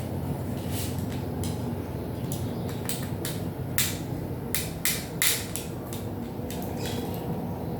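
Irregular clicks and knocks of small hard parts and tools being handled, with three sharper knocks a little past the middle, over a steady low hum.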